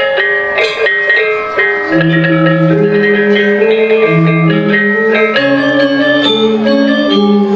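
Balinese gamelan ensemble playing a tabuh kreasi: quick, ringing metallophone notes in close succession, with lower held notes coming in about two seconds in.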